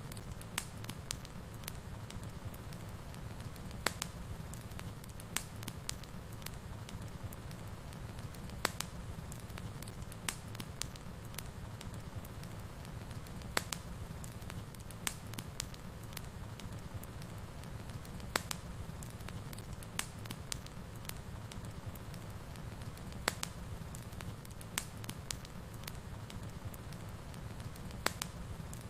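Wood fire burning in a fireplace: a steady low rumble of the flames, with irregular sharp crackles and pops every second or so.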